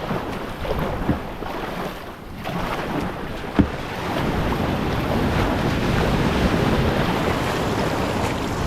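Wind buffeting the microphone: an even rush of noise that rises and falls, with a few light knocks, the clearest about three and a half seconds in.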